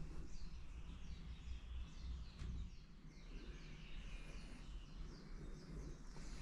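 Small birds chirping, a run of short, quick falling calls repeated many times over a low steady rumble of outdoor background noise.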